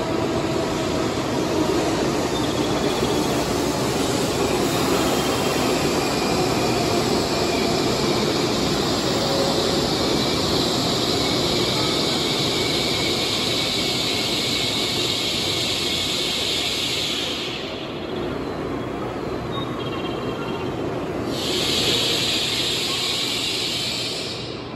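Steady hum and hiss from a standing N700S Kamome shinkansen train's onboard equipment. The higher hiss cuts out about 17 seconds in, returns some four seconds later and stops again near the end, while a lower rumble runs on underneath.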